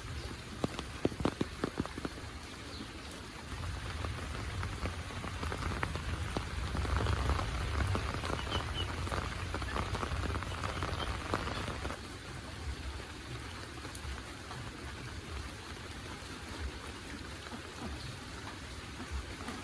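Heavy monsoon rain falling steadily, with sharp drip taps in the first couple of seconds. It is louder for several seconds in the middle, then eases back.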